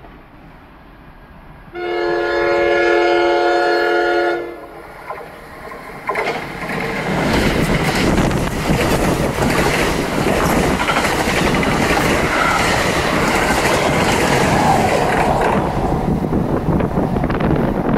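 Passenger train's air horn sounds one long chord-like blast of about two and a half seconds, then the train passes at speed: a loud rush of wind and rumble with rapid clatter of wheels over the rails.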